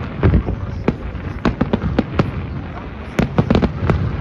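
Fireworks going off: many sharp bangs and cracks in quick, irregular succession, bunched in runs of several just after the start, around a second and a half in, and again past three seconds, over a continuous low rumble of further explosions.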